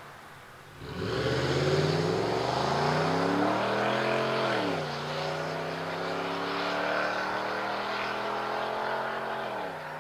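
Ford F-150's 5.0L V8 accelerating through a Corsa dB Performance stainless cat-back exhaust. About a second in, the exhaust note climbs steadily in pitch for about three seconds, drops at an upshift, then climbs more slowly through the next gear and falls away near the end.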